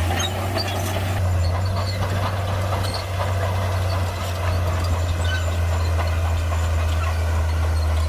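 Heavy Shantui crawler bulldozer's diesel engine running with a steady low drone, overlaid with scattered squeaks and clanks from the machine as it works.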